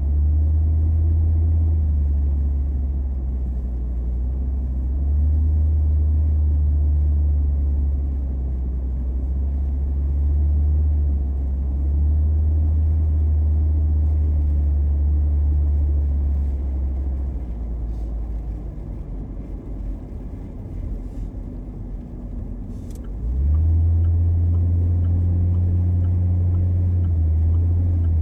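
A car's engine and road rumble heard from inside the car while driving: a steady low drone that eases off for several seconds past halfway, then picks up again with a short rise in pitch as the car accelerates.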